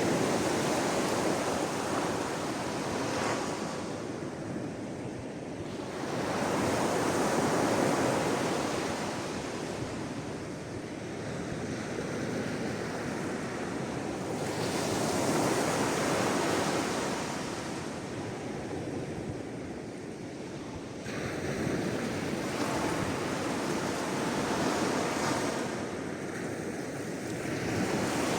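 Sea waves breaking and washing in, the surf rising and fading in slow surges about every seven seconds.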